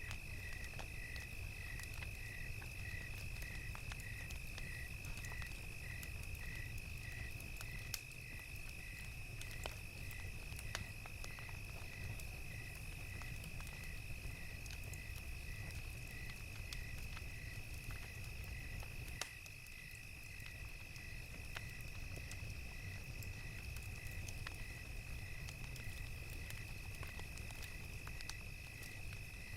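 Crickets chirping: one steady high trill, with another cricket chirping about twice a second just below it. Scattered pops from a crackling campfire and a low rumble sit underneath.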